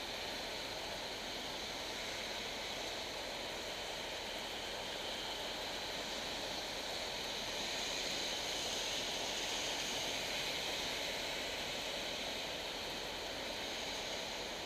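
Heavy tropical rain pouring down in a steady hiss. It swells a little about eight seconds in, then eases slightly.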